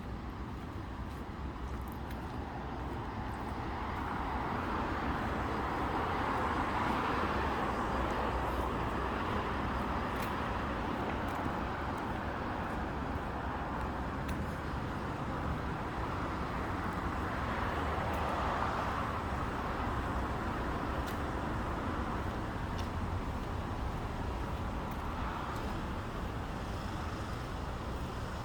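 Road traffic going by: a steady rumble of passing cars that swells twice as vehicles pass close and then fades back.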